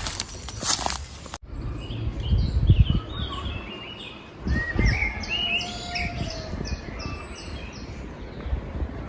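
Wild birds singing, several calls overlapping, with a run of evenly repeated high chirps in the second half. This follows a second or so of rustling steps that breaks off abruptly, and low thuds run underneath the birdsong.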